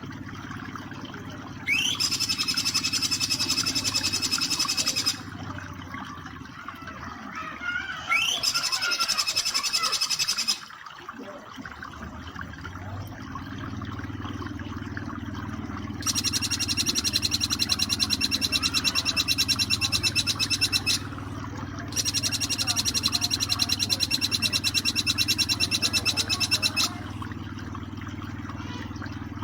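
Jingjing petulak bird song in its rapid 'nembak' trill: four bursts of fast, evenly pulsed buzzy notes lasting two to five seconds each, each starting with a quick upward sweep. Between the bursts a steady low background of flowing water runs on.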